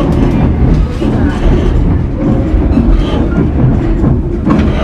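Narrow-gauge passenger train rolling along the rails, heard on board: a steady loud rumble with wheel clatter.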